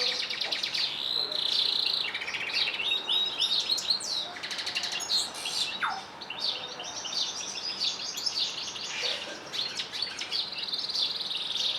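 Canaries and goldfinches singing without pause: fast trills and rapid runs of repeated notes, with quick pitch glides, one of them a sharp downward whistle about six seconds in.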